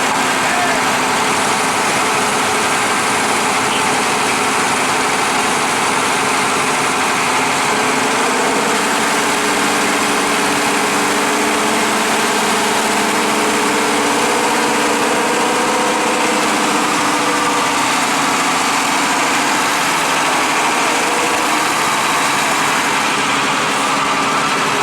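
Large vehicle engine running steadily, with its pitch drifting slightly up and down partway through.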